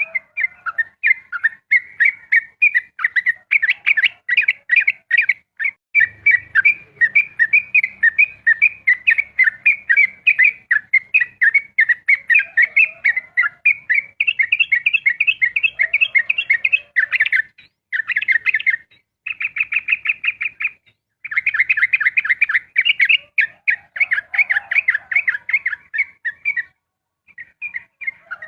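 Yellow-vented bulbul (trucukan) singing a long, rapid run of chattering notes, many per second, in the continuous 'ropel' style, with a few short breaks in the second half.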